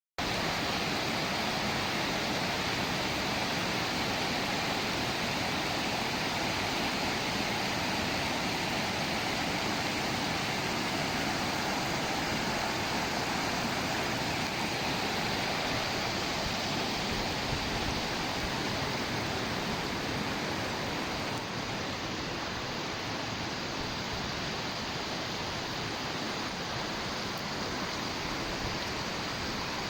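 Steady rush of flowing water, an even hiss without distinct splashes, easing slightly about two-thirds of the way through.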